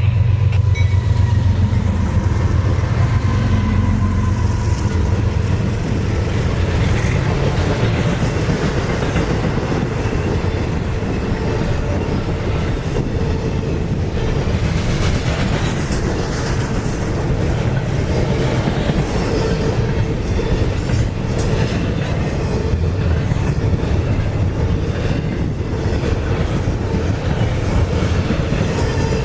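CSX intermodal freight train passing: a heavy low rumble for the first few seconds, then the cars rolling by steadily with a clickety-clack of wheels over the rail joints.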